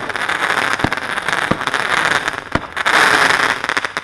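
Cheap consumer fireworks going off: a dense, steady crackle of sparks with four sharp pops in the first two and a half seconds. The crackle cuts off suddenly at the end.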